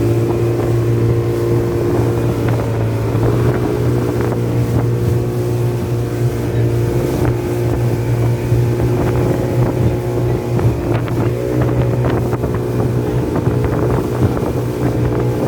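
Motorboat engine running steadily under way, its pitch shifting slightly a couple of times, with wind buffeting the microphone.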